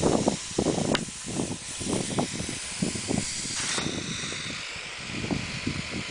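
Compressed air from a refrigerator-compressor pneumatic rig hissing steadily, the hiss changing in strength twice, with irregular low knocks and rattles from the mechanism.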